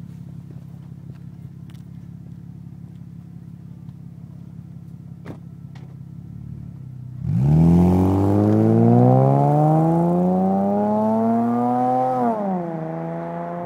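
Audi A6 engine through a Magnaflow exhaust with straight pipes and resonators: idling steadily, then about seven seconds in it is revved hard, the exhaust note getting much louder and climbing in pitch for about five seconds before the throttle is released and it falls back toward idle near the end.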